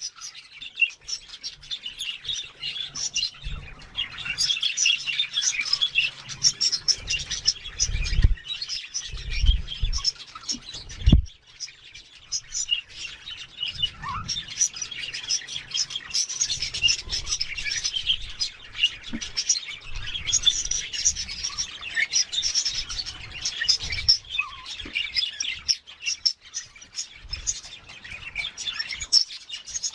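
Budgerigars chirping continuously in a busy run of short, high chirps, with a few low thumps about a third of the way in.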